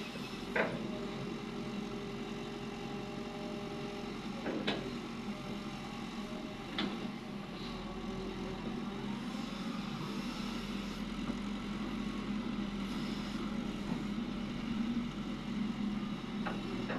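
Heavy diesel engine of a Cat 330D excavator running steadily under work while it loads trucks, with a few sharp knocks.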